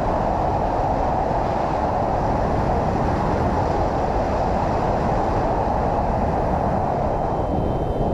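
Steady rush of wind and road noise from a motorcycle riding at speed, as picked up by a helmet or bike-mounted camera; even and unbroken, with no distinct engine note standing out.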